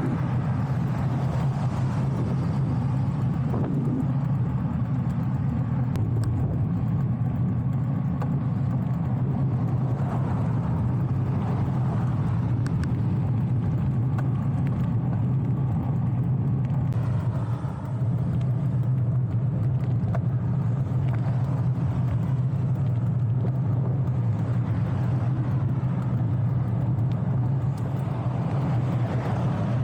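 Steady low rumble of road and wind noise from riding a bicycle along a road with car traffic, with a brief drop in level about eighteen seconds in.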